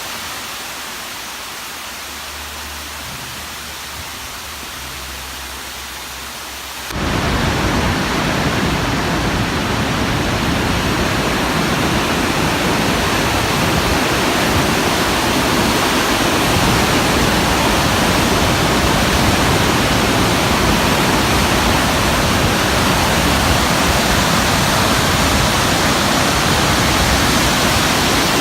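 Mountain waterfall rushing, a steady noise of falling water that jumps suddenly much louder and fuller about seven seconds in.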